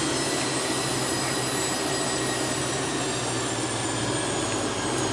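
Steady cabin noise inside a Hawker 800 business jet on the ground before takeoff: an even rush with a constant high whine and a low hum from the running aircraft systems.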